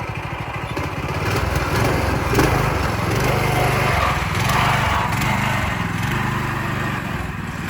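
Go-kart's Predator 212cc single-cylinder engine running, picking up revs about a second in and then pulling steadily, held to low revs by its governor.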